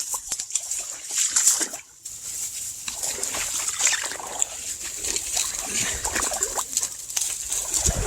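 Marsh water sloshing and splashing irregularly as someone wades thigh-deep through it.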